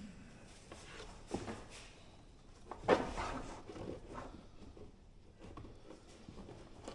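A UTV cargo net and its adjustable straps and buckles being handled. The handling rustles, with a few sharp knocks and clatters; the loudest comes about three seconds in.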